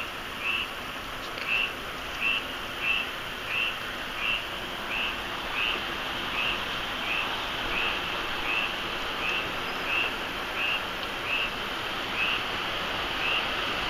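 A small creature calling outdoors: a short, high chirp repeated evenly, about three times every two seconds, over a steady background hiss.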